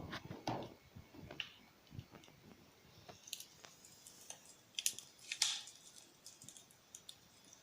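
Faint, scattered crackles and pops of a fireplace sound played through a mobile phone's speaker, with a few louder snaps midway.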